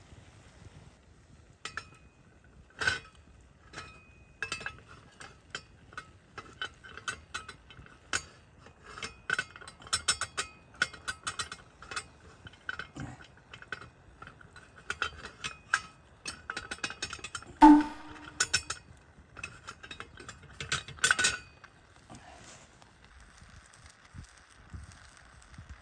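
Metal utensils clinking and scraping against metal cookware in many short, irregular taps, with one louder clank about two-thirds of the way through.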